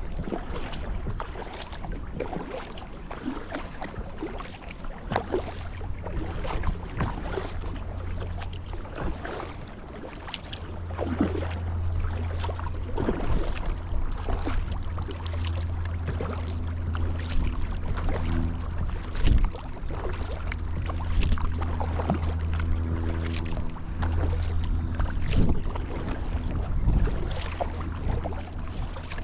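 Kayak paddle strokes dipping and splashing in calm water, with many short splashes and drips, over a steady low rumble.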